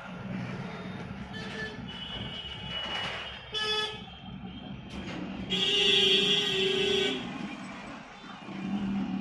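Vehicle horn honking: a short toot about three and a half seconds in, then a louder, longer honk of about a second and a half near the middle, over a steady low hum of traffic.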